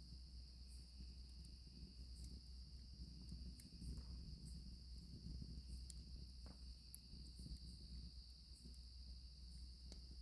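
Crickets trilling in a steady, unbroken drone, with scattered faint crackles and pops from a campfire over a low rumble.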